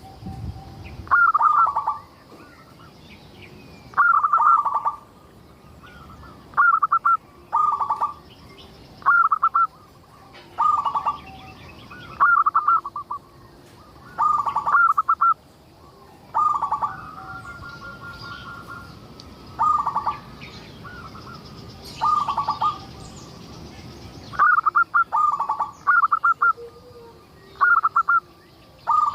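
Zebra dove (perkutut) cooing: short stuttering phrases of clipped notes, repeated every one to three seconds and bunched closer together near the end, with faint high chirps of other birds behind.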